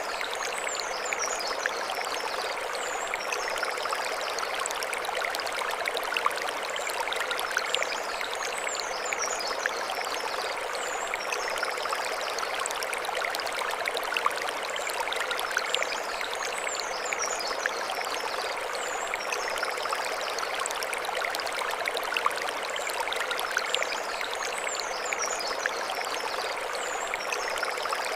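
Mountain stream running over stones, a steady rush of water. High chirping calls come in pairs, repeating about every eight seconds.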